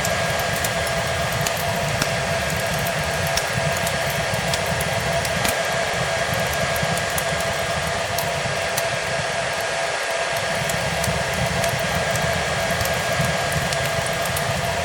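Hair dryer running steadily, a continuous blowing noise with a steady motor whine, mixed with scattered small crackles of a wood fire.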